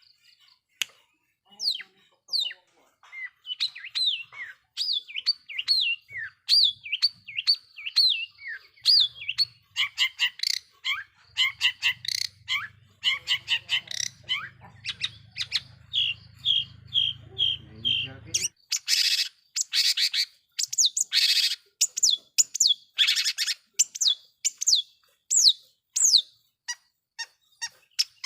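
Long-tailed shrike (cendet) singing a fast, varied song: runs of quick downward-sweeping chirps, then louder, noisier notes in the second half. A low hum sounds underneath through the middle and cuts off suddenly.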